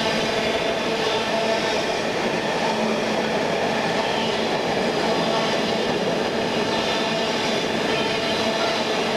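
Freight train container wagons rolling past: a steady noise of steel wheels running on the rails.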